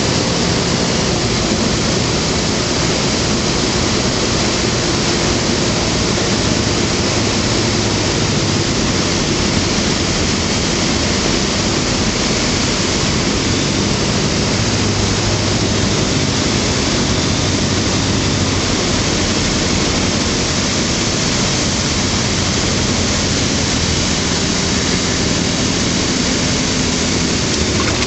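Rotax 912 flat-four engine of a Skyranger microlight running steadily, under a loud, even rush of airflow noise over the microphone.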